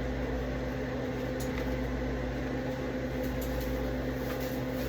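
A kitchen appliance running with a steady electrical hum, a low drone with a clear higher tone over it, with a few faint light clicks of handling on top.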